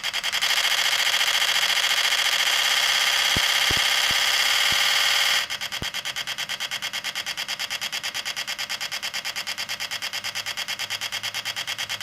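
A model locomotive's DCC sound decoder playing a generic diesel engine sound through its small onboard speaker, a fast, even throb with little bass. It steps up louder about half a second in and drops back to a lower level a little after five seconds, with a few light clicks along the way.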